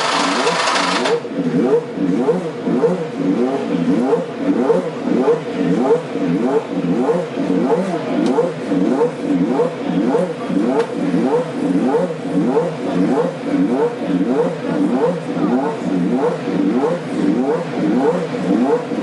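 McLaren MP4/4's Honda 1.5-litre turbocharged V6 running with the throttle blipped over and over, about two quick revs a second, each rising and falling. A loud hiss cuts off about a second in.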